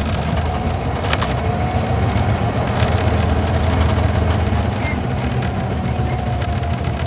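Isuzu Gala coach's V-type diesel engine running under way, heard from inside the passenger cabin. It is a steady low engine drone with a faint whine and scattered small cabin rattles and clicks.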